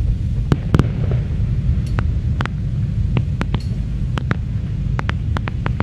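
Fireworks display: a steady low rumble with many sharp pops and cracks, scattered at first and coming faster in the second half.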